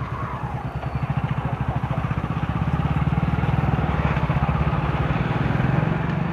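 Motorbike engine running while riding, its fast firing pulses growing louder over the first few seconds and then holding steady.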